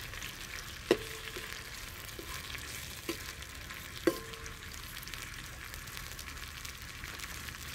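Green chillies, curry leaves, garlic and ginger sizzling steadily in hot oil in a metal pot. A metal spoon clinks sharply against the pot a few times as it stirs, loudest about a second in and about four seconds in.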